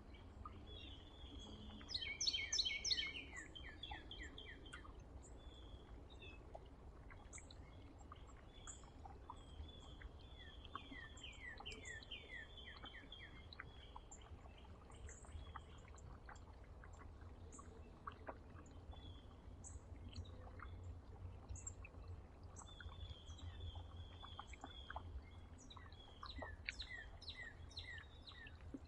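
Several small songbirds chirping and calling, with a louder burst of quick falling notes about two seconds in and more runs of falling notes later, over a steady low rumble.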